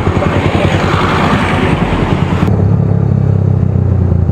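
Loud motorcycle exhaust with no silencer fitted, the engine running with a rapid, heavy pulse. A hiss over it stops abruptly about two and a half seconds in.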